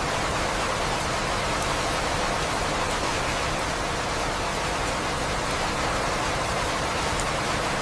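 Steady rain falling: an even, unbroken hiss of rain with no thunder.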